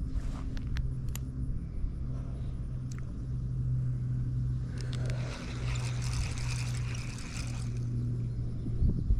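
Steady low motor hum and rumble, with a hiss that swells for about three seconds in the middle and a few faint clicks near the start.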